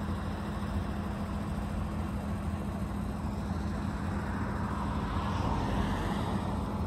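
An old car's engine idling steadily, a low even hum, running fine at the top of a high mountain pass. The noise swells slightly about five seconds in.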